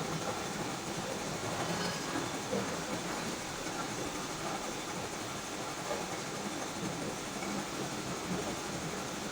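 Steady mechanical running noise, an even hiss and rumble with no clear rhythm or strikes.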